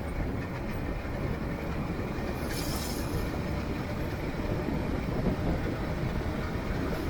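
Steady low vehicle rumble, with a brief hiss about two and a half seconds in.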